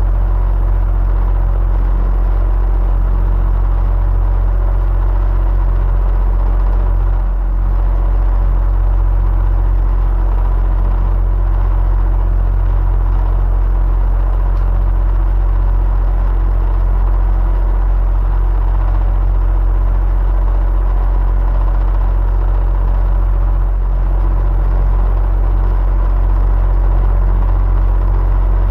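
Electric fan running steadily: a constant low hum with a whir over it, dipping briefly about seven seconds in.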